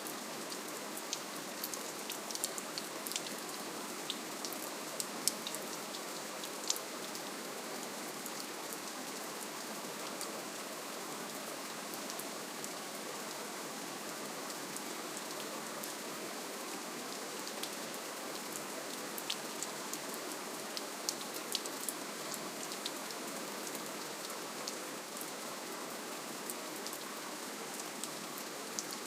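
Steady rainfall, a soft even hiss with many separate drops ticking sharply against it.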